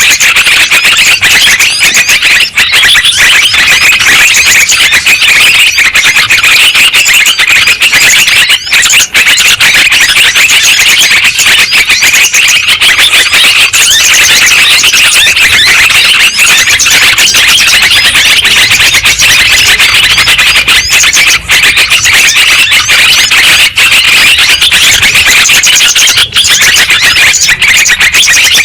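Yellow-vented bulbul (trucukan) calls played as a lure track: a dense, continuous, loud chorus of overlapping chattering calls with no pauses.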